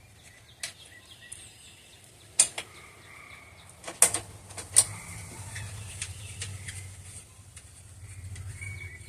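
A few sharp metallic knocks and clanks as generator parts and tools are handled, the loudest about four to five seconds in, with a low hum that comes in at about the same time.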